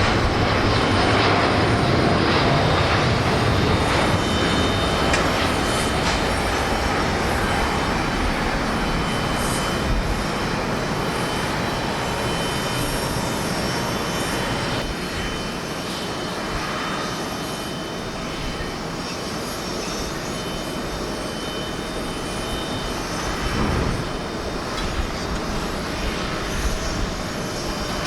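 Jet airliner engines at takeoff thrust: a loud, steady roar with a faint high fan whine. It gradually fades over the first half as the aircraft climbs away, then holds at a lower level, with wind rumbling on the microphone.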